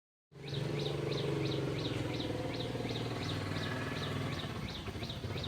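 Animal calls: a short high chirp repeated evenly about two to three times a second over a dense, low, pulsing chorus of calls.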